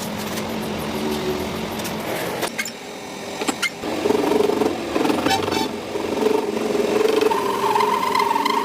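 A machine running with a steady mechanical hum, a few sharp clicks and knocks, and a whine that comes in about four seconds in and rises in pitch near the end.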